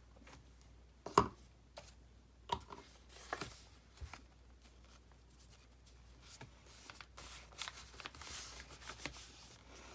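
Paper and card being handled on a desk: rustling and sliding, with a few sharp taps, the loudest about a second in.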